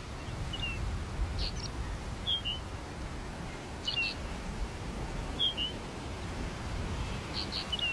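A bird chirping: short high notes, often in quick pairs, repeated about every one and a half seconds, over a steady low wind rumble.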